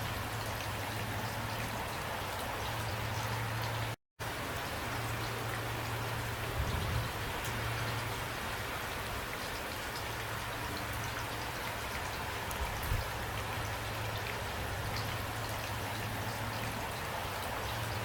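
Steady rain falling, an even hiss over a steady low hum, with two faint low thuds around seven and thirteen seconds in. The sound cuts out completely for a split second about four seconds in.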